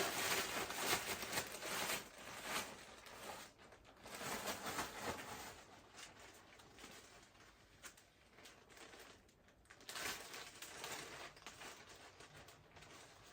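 Fish deep-frying in hot grease, a steady sizzle with dense fine crackling that is louder in the first couple of seconds and then ebbs and swells.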